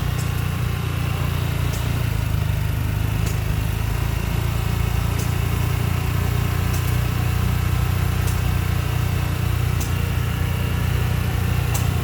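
A small engine running steadily with a low, even drone. Faint sharp clicks sound every one and a half to two seconds on top of it.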